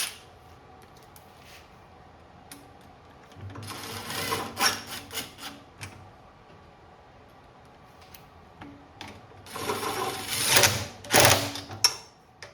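Ratchet wrench clicking in two quick runs, about a third of the way in and again near the end, as the carburettor mounting nuts are run down.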